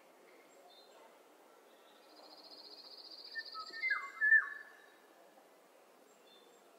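Songbirds singing: a fast, high trill about two seconds in, then a few clear whistled notes, the loudest about four seconds in, over a faint steady hiss.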